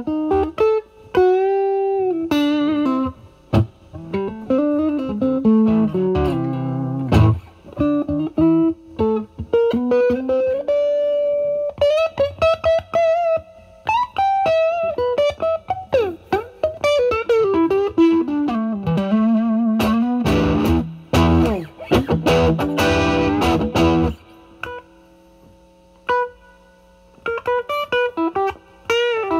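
Stratocaster electric guitar through a Vertex Steel String Clean Drive MK1 overdrive pedal at full gain into a Marshall Valvestate's drive channel: blues lead lines with string bends and vibrato. About twenty seconds in come a few seconds of strummed chords, then a short pause before the single-note playing resumes.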